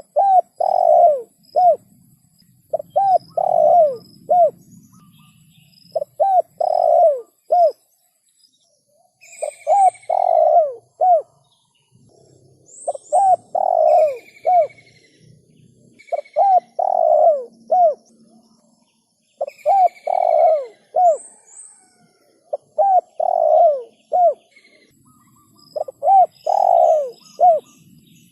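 Spotted dove (tekukur) cooing, repeating its phrase of several short coo notes about every three seconds. A few brief, higher chirps come between phrases in the middle.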